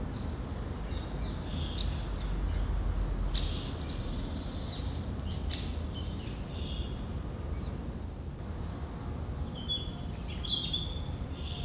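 Wild birds chirping in short calls on and off, over a steady low background rumble.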